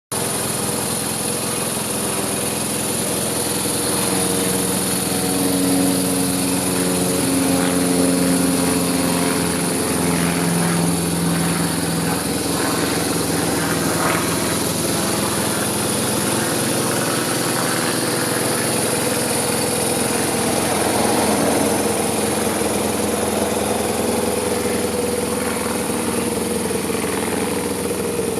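BMW R1200 RT's air/oil-cooled boxer twin engine running at idle. The engine speed is held a little higher for several seconds, from about five to twelve seconds in, then settles back to a steady idle.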